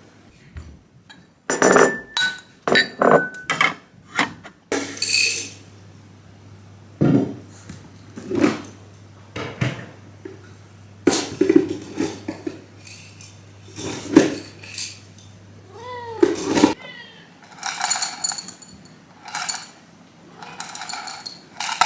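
A kitten meowing over and over, short calls every second or two, one with a clear rise and fall in pitch. A few light clinks sound near the start.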